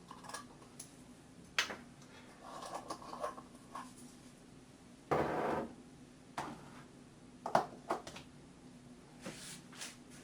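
Kitchen utensils handled at a worktop: a measuring spoon and dishes clinking and tapping several times, with one louder scrape lasting about a second midway.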